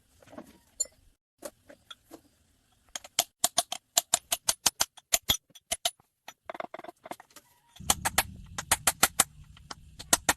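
A rapid series of sharp knocks or taps, about five a second, in two runs. A low steady rumble comes in under the second run.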